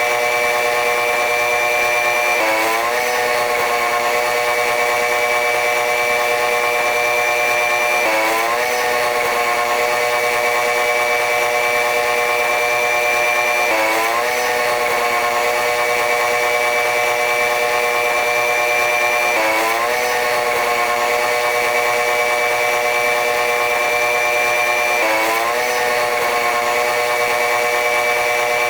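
Train running noise: a steady mechanical whine made of several pitched tones over a hiss. About every five and a half seconds the tones dip briefly and sweep back up, in an evenly repeating cycle.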